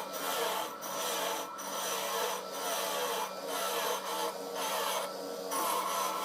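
Rasping, scraping strokes of a hand tool worked back and forth on a part, about one stroke a second, over a steady low hum.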